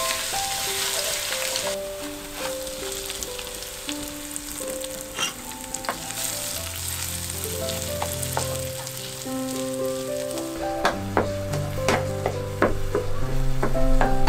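Chopped chillies and garlic sizzling in hot oil in a pan, with a wooden spatula stirring and scraping against the pan; the clicks of the spatula come more often in the last few seconds. This is the chilli-garlic sauce being fried. A soft melody of background music plays underneath.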